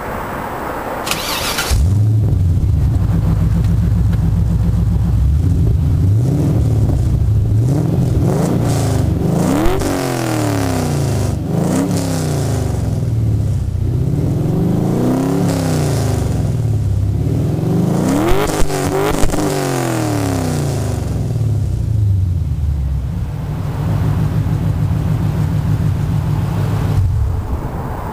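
LS1 V8 in a Nissan 240SX, exhaling through long-tube headers, a Y-pipe and 3.5-inch pipe into a Magnaflow race muffler, comes in loud about two seconds in and idles, is revved up and down several times, then settles back to idle. The exhaust has a leak, which spoils the tone.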